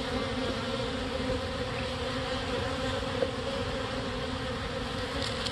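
Honey bees buzzing in a steady hum around the open nuc box of a newly hived swarm colony.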